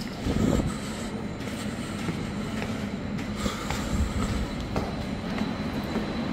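Suburban electric multiple-unit train at the station platform, a steady rumble and hum heard from the stairwell, with scattered light clicks and a brief louder swell about half a second in.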